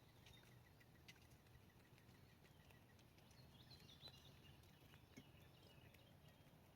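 Faint outdoor quiet over a low steady hum. High small-animal or bird chirps come and go, clustered about three and a half to four and a half seconds in, with a few light clicks scattered through.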